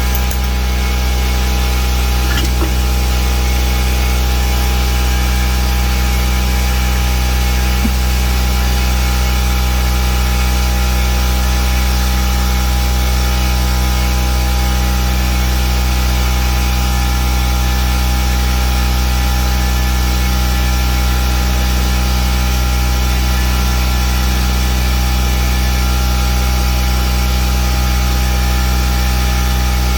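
Steady machine drone from a motor or engine running continuously, a low rumble with a fixed hum over it, unchanging throughout.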